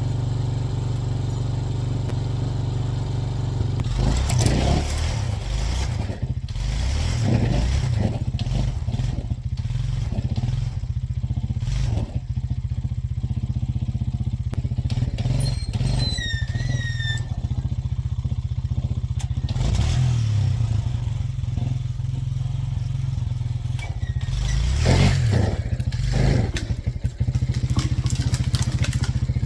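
ATV engine running and revving under load as it drags a hung-up dead tree free with a chain, with clattering and scraping from the tree and chain. A few short high chirps come about halfway through.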